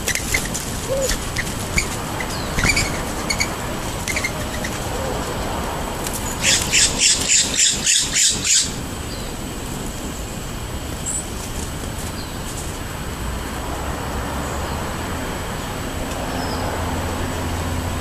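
Small birds chirping now and then over steady traffic noise, with a loud rapid run of about eight harsh pulses around the middle.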